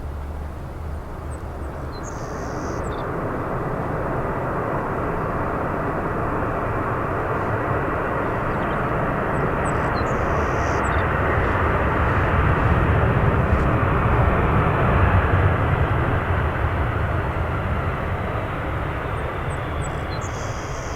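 Jet airliner passing, its engine noise building to a peak a little past halfway and then easing off.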